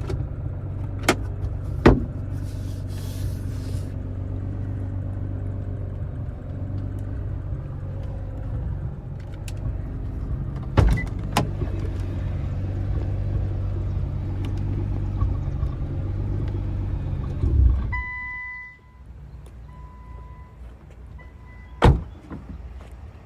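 Straight-piped Nissan R35 GT-R's twin-turbo V6 idling with a steady low rumble, then shut off about 18 seconds in. A few sharp clicks and knocks come through, and after shutdown an electronic chime beeps on and off.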